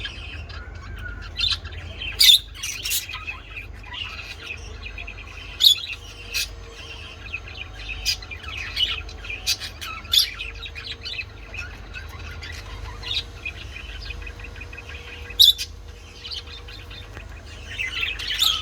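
Lovebirds chirping: a run of short, high chirps, with sharper, louder calls about two seconds in, near six seconds and near fifteen seconds, over a steady low hum.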